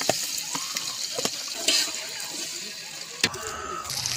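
Sliced onions and tomato paste sizzling in hot oil in a pot over a wood fire: a steady high hiss with a few sharp clicks, its texture changing abruptly about three seconds in.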